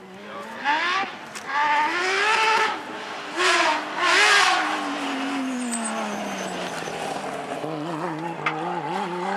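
Porsche rally car's flat-six engine revving hard through several quick upshifts as it accelerates. After about four and a half seconds the engine note falls steadily away, then wavers and climbs again near the end.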